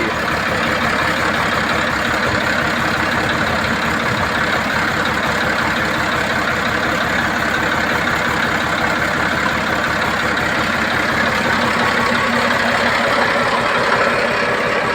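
1975 Ford 4000 tractor engine idling steadily, with an even firing rhythm.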